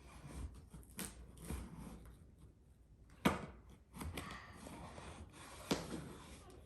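Cardboard box and packaging being handled and pulled open: rubbing and scraping, with three sharp clicks or snaps, the loudest about a third of the way in.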